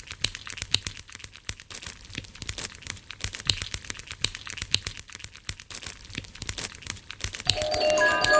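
Dense, irregular crackling: many quick clicks and crackles close together, with no steady tone. Near the end, chiming mallet-like music notes come in over it.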